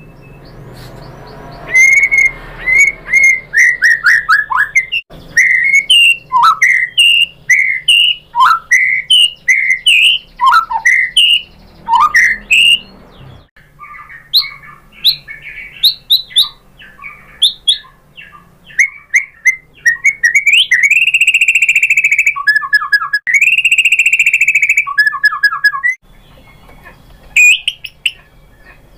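White-rumped shama singing: a fast run of loud whistled notes, many sweeping downward, for the first dozen seconds. Then come shorter, varied notes, and about twenty seconds in two long held trilling notes with quick stuttering notes between them.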